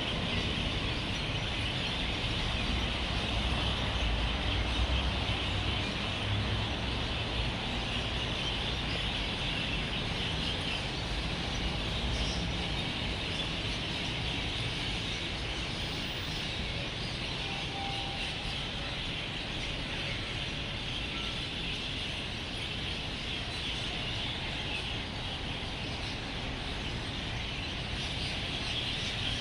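A dense chorus of many roosting birds chirping together, a steady high chatter, over low traffic rumble that swells as a vehicle passes in the first several seconds.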